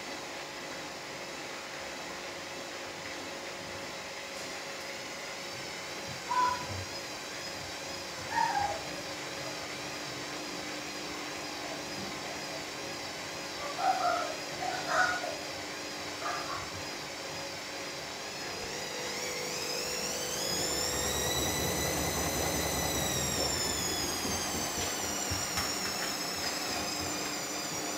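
Hoover 7 kg washing machine running, with a steady hum and a wavering motor whine. About two-thirds of the way through the whine rises steeply as the drum speeds up for the spin, then slowly falls away. Over it in the first half come a few short animal calls, the loudest sounds here.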